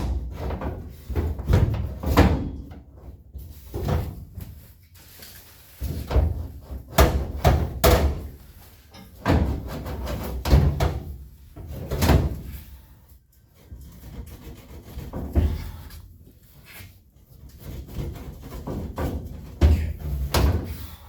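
A roll bar being shifted and set down on a pickup's bed, knocking and thumping over and over as its legs are worked into line with the mounting holes.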